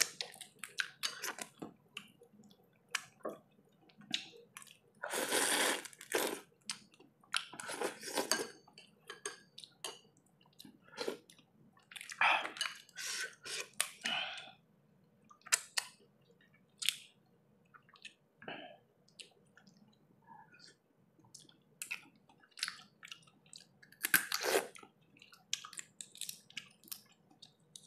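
Close-up eating of lobster in sinigang broth: chewing and mouth sounds with many scattered short clicks, broken by several longer noisy sucks or slurps of about a second each.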